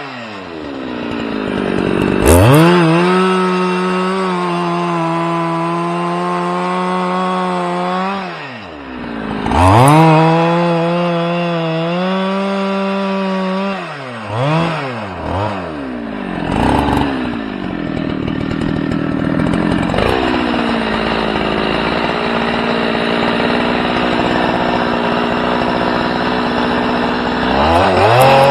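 A small engine revving: it climbs to a high, steady speed within the first two seconds and holds there. It drops back and revs up again about nine seconds in, gives a few quick blips of the throttle around fifteen seconds, then settles into steadier, rougher running from about twenty seconds.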